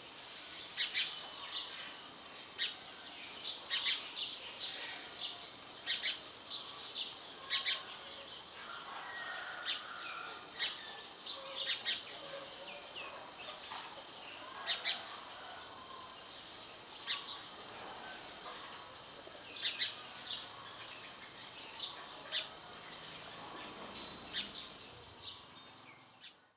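Birds chirping: short, sharp high chirps at irregular intervals over a steady outdoor background hiss, with softer calls between, fading out near the end.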